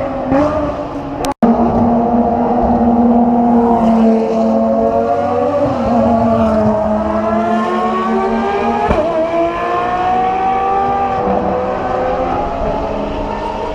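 Ferrari FXX Evolution's V12 engine running at steady moderate revs, its note drifting slowly up and then easing back down. The sound cuts out briefly about a second and a half in.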